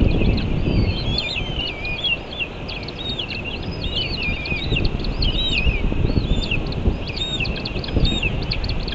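Birds chirping in a fast, overlapping stream of short high calls over a steady low rumbling noise.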